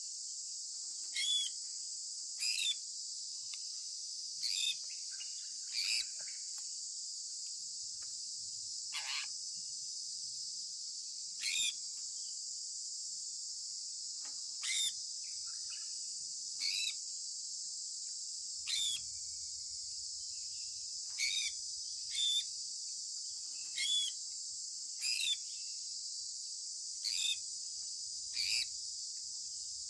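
Sun conure parrot giving short chirps that each sweep downward, repeated every one to two seconds, over a steady high-pitched hiss.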